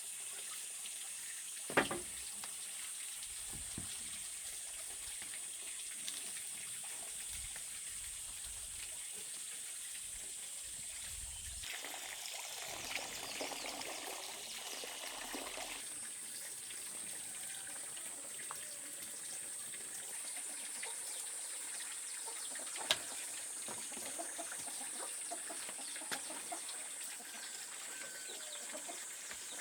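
Water running steadily, with a couple of sharp knocks, the first about two seconds in and another past the middle.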